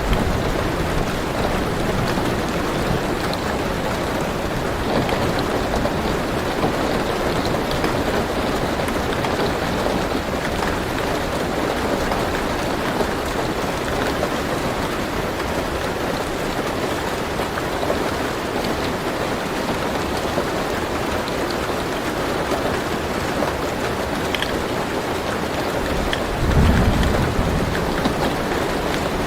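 Steady rain pattering on a car roof, heard from inside the car. Near the end comes a brief low rumble of thunder.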